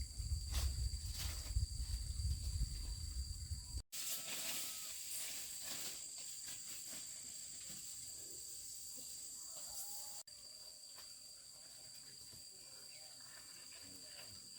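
Outdoor ambience dominated by a steady, high-pitched insect chorus. A heavy low rumble, like wind on the microphone, fills the first few seconds, and the sound cuts abruptly twice, about four and ten seconds in.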